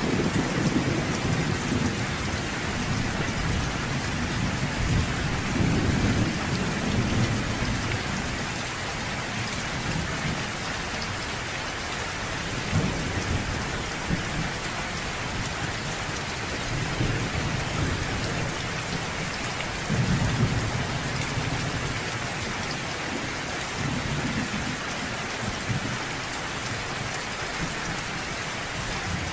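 Steady rain falling, with low rumbles of distant thunder swelling and fading several times underneath it.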